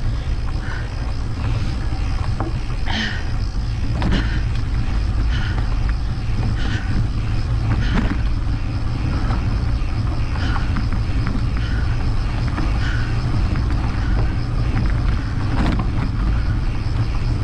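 Steady low rumble of wind buffeting the microphone while mountain biking, with scattered clicks and knocks from the bike and trail.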